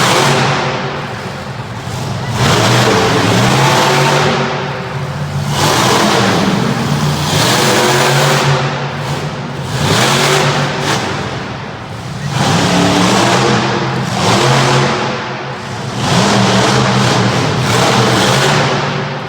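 Monster truck engine revving hard in repeated surges, rising and dropping every couple of seconds through a freestyle run.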